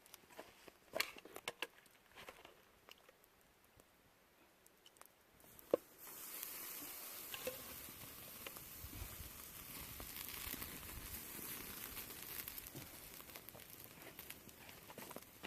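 Scattered clicks and crackles, then about six seconds in a steady sizzling hiss starts with crackles over it: steak cooking over a campfire.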